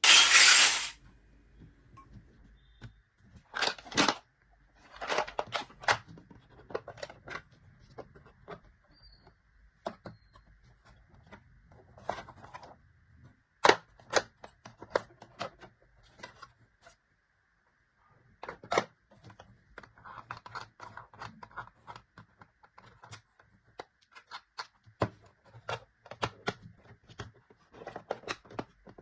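Small plastic toy-kitchen pieces and their packaging being handled: a short loud rustle or tear right at the start, then scattered clicks, taps and brief crinkles with quiet gaps between.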